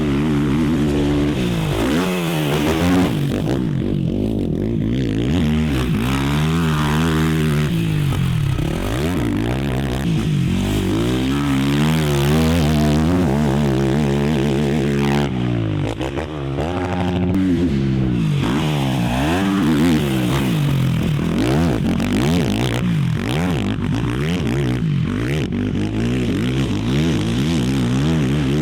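Race quad's single-cylinder engine ridden hard: the pitch climbs and drops again and again with throttle and gear changes, with a brief dip about sixteen seconds in.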